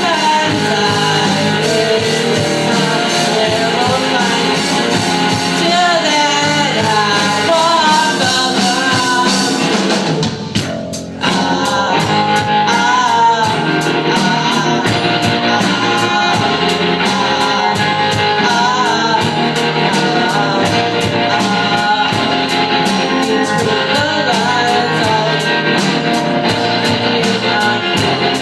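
A band of kids playing rock live: electric guitars, drums and a sung lead vocal. The band drops out for a moment about ten seconds in, then comes back in on a steady beat.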